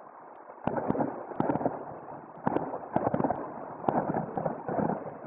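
Aerial fireworks going off in a series of sudden bangs with crackle, starting about a second in and repeating every half second to a second.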